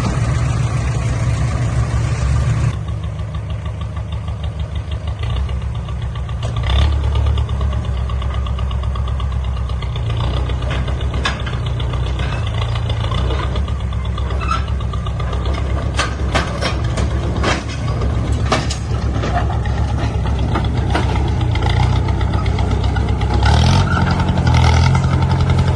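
Heavy construction machine's diesel engine running steadily, easing to a lower note about three seconds in. Scattered metallic clanks follow in the middle, and the engine picks up again near the end.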